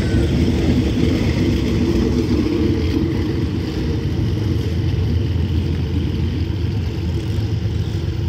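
Passenger train's coaches rolling past on the track, a steady low rumble of wheels on rails that eases off slightly as the last coach draws away.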